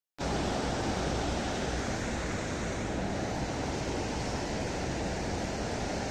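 Steady rush of flowing river water, cutting in abruptly just after the start.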